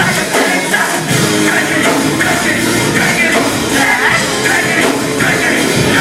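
Rock band playing live and loud: a dense, full mix of electric guitars and drums.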